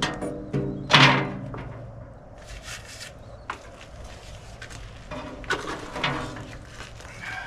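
Electric paint sprayer buzzing in several short bursts of about half a second each, at a steady low pitch, over a steady low hum: two close together in the first second, then two more about six seconds in.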